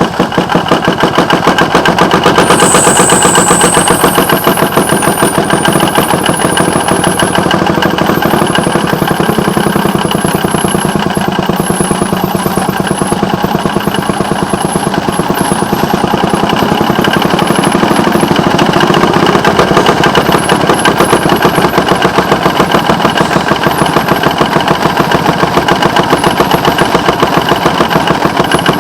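Small engine of rail car WCRG 574 running with a fast, even putter as the car backs onto a turntable. A high squeal rings out about three seconds in, with fainter high squeaks scattered afterwards.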